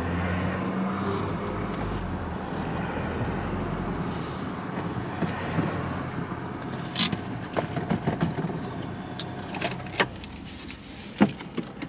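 Van running with a steady low hum that drops away about four seconds in. A scatter of sharp clicks and knocks follows in the second half.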